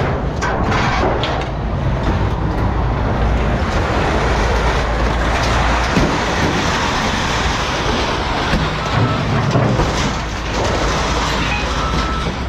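Heavy vehicle or machinery running, a steady loud mechanical rumble with rattling.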